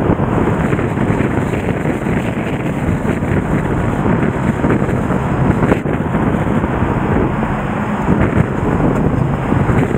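Nagara River in flood after a typhoon: a loud, steady rush of fast, high water.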